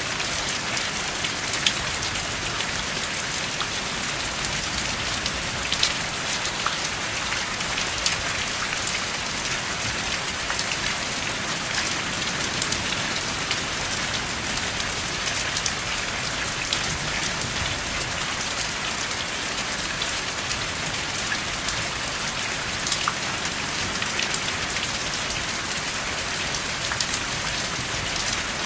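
Steady rain falling, an even hiss with individual drops ticking sharply here and there; no thunder.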